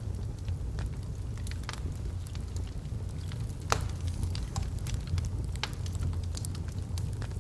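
Wood fire burning in a fireplace: a steady low rumble of the flames with irregular sharp crackles and pops from the burning logs, one louder pop a little after halfway.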